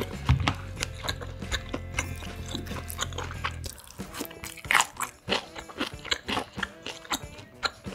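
Close-miked chewing: wet mouth clicks and smacks of someone eating, with background music holding sustained notes underneath.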